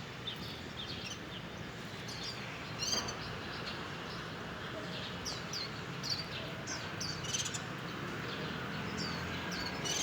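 Small birds chirping: short, high chirps in scattered clusters of a few at a time, over a steady background hiss.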